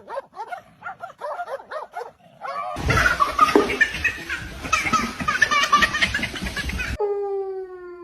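Dog barking in quick short yaps, then a louder, noisier stretch of barking about three seconds in. Near the end, a long drawn-out animal call begins, sliding slowly down in pitch.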